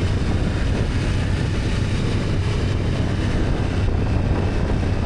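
BMW F800GS parallel-twin engine running steadily at a low, even hum while riding, with wind rushing over the microphone.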